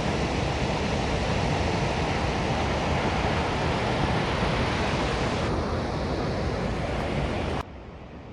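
Steady rushing of a waterfall and its stream, which drops abruptly to a much quieter rush about seven and a half seconds in.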